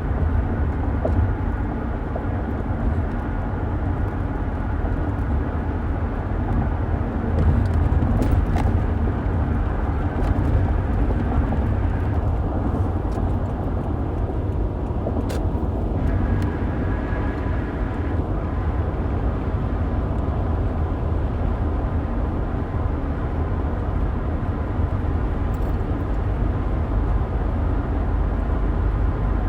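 Steady road noise of a moving car heard from inside the cabin: a low rumble of tyres and engine, with a few faint clicks.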